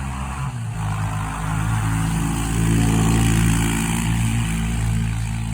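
1999 Arctic Cat ATV engine running on a test ride, picking up revs about half a second in and loudest around the middle before easing off a little; it runs well.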